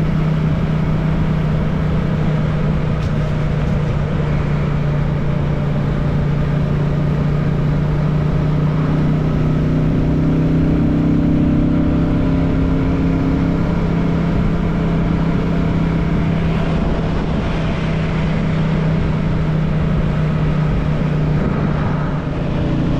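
Royal Enfield Classic 350's single-cylinder engine running steadily at cruising speed, heard from the moving motorcycle, its note holding an even pitch throughout.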